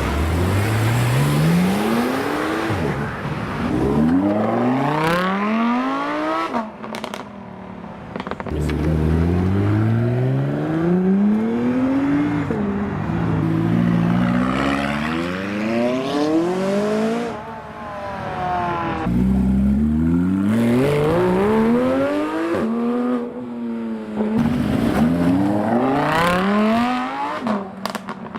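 High-performance car engines accelerating hard, one run after another. Each time, the engine pitch climbs steeply, drops back at an upshift and climbs again, with brief lulls between the runs.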